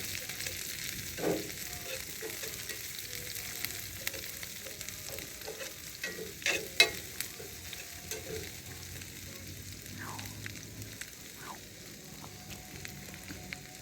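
Onions and peppers frying in oil in a hot cast iron pan, a steady sizzle, with a few sharp knocks about halfway through.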